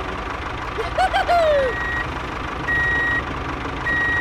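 Vehicle reversing alarm beeping, one steady tone about once every 1.2 seconds, over a low steady engine rumble. A short falling vocal exclamation sounds about a second in.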